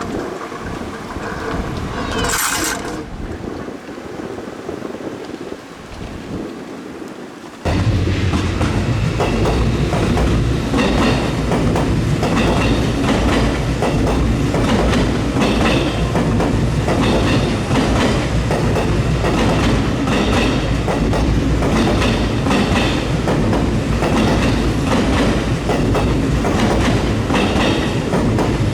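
An Odakyu 70000-series (GSE) Romancecar electric train running by on the rails, a loud steady rumble with the clickety-clack of wheels over rail joints coming about once a second; it starts abruptly about eight seconds in. Before that, quieter train-side sound with a brief high-pitched squeal about two seconds in.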